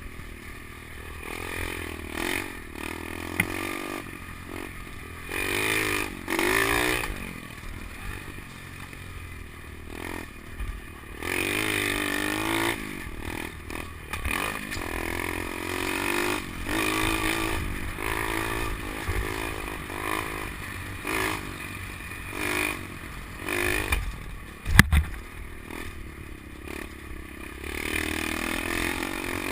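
SSR 125 pit bike's single-cylinder four-stroke engine, through an FMF Powercore 4 exhaust, revving up and easing off over and over while being ridden, with the bike rattling and a few sharp knocks, the loudest near the end. The choke is left on, so the engine cannot be taken to full throttle.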